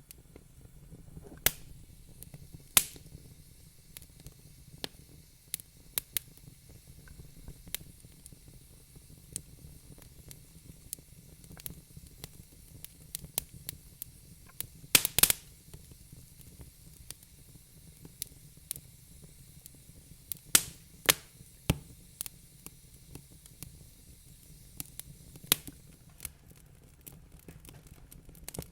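Wood fire in a fireplace crackling, with irregular small snaps and a few louder pops, a quick cluster of them about halfway through, over a steady low rumble of the flames.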